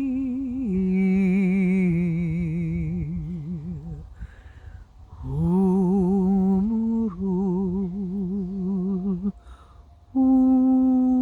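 A single voice humming long, wordless notes with a wavering vibrato, in two phrases with audible breaths between them. About ten seconds in, a steady, unwavering ringing tone takes over.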